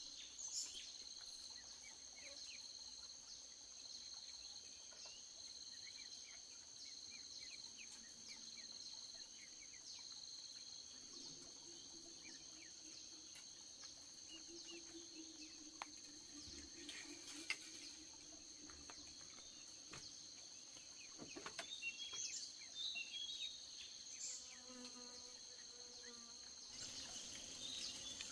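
Insects singing in a steady high trill, with a lower pulsing chirp for the first ten seconds or so. There are a few short bird chirps, mostly after the twenty-second mark, and a few faint clicks.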